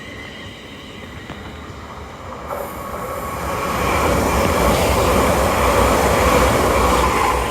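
An East Midlands Railway Class 810 Aurora train passing through the station. Its noise builds from about two and a half seconds in, peaks, and starts to fade near the end.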